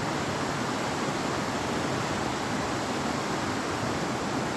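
Steady rushing of the Betwa River's flowing water, an even noise with no breaks.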